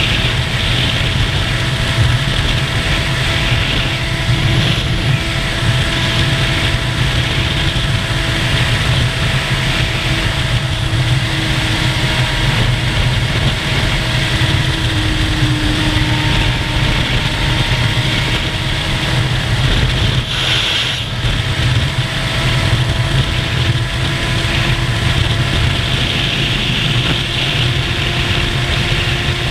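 Motorcycle engine running at a steady cruise, its pitch drifting slowly, under a heavy rush of wind noise.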